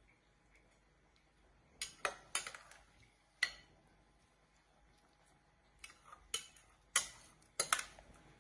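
Kitchen utensils clinking and knocking against dishes: sharp clicks in two groups, with a quiet stretch between.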